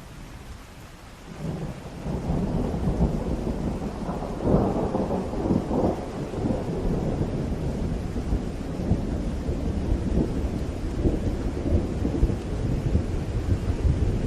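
Rain falling steadily, then a long rumble of thunder builds about a second and a half in, loudest a few seconds later, and keeps rolling over the rain.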